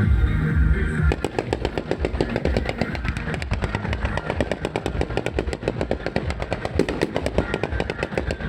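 Fireworks going off in a rapid, continuous string of sharp bangs, about ten a second, starting about a second in.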